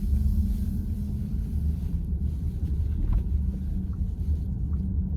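Steady low rumble of road and tyre noise inside the cabin of a VW ID.4 electric car while driving.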